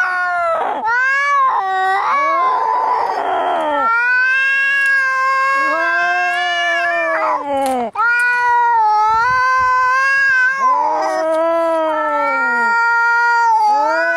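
Cats in a fight, yowling and caterwauling in long, drawn-out wavering calls one after another, with a hiss about two seconds in. The yowls are a cat's threat calls.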